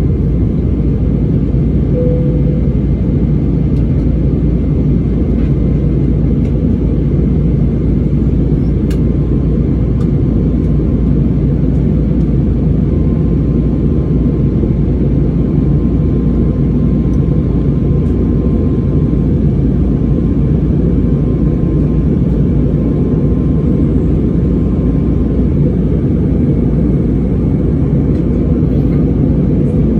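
Airliner cabin noise during the climb after takeoff: a steady, dense low rumble of engines and airflow, with a faint steady hum joining about halfway through.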